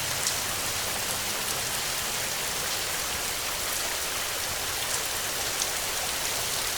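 Heavy rain falling steadily: a dense, even hiss with a few sharper drop hits standing out, no thunder.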